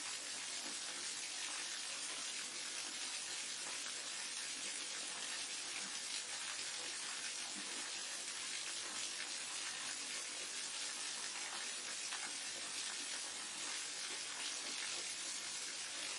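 Waterfall water rushing and splashing: a steady, even hiss that does not change.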